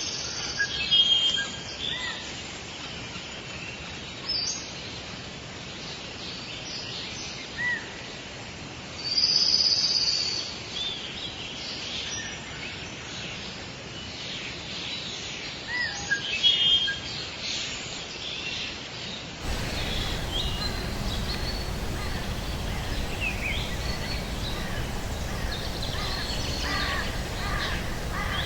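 Wild birds calling and chirping over forest ambience, in short scattered calls. About two-thirds of the way through the background changes suddenly to a steadier, louder hiss with a denser chorus of calls, as one nature recording gives way to another.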